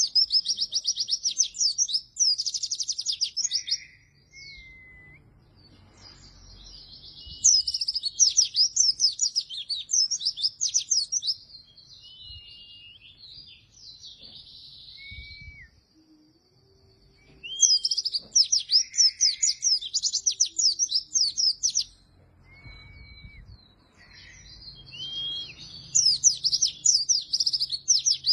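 White-eye (pleci) in full song: fast bouts of rapid, high, twittering chirps, each lasting about three to four seconds, separated by pauses in which single short whistled notes sound.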